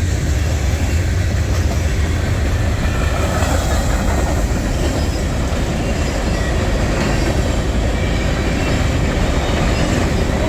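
Freight train cars rolling past on the rails: a steady heavy rumble and wheel noise, with faint wheel squeal.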